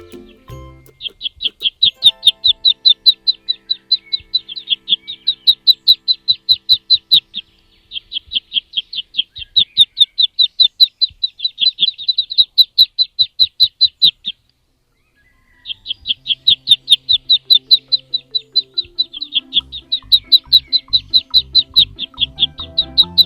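A small bird chirping, short high chirps evenly repeated about six a second in long runs, with a clean break of about a second just after the middle. Faint music underneath.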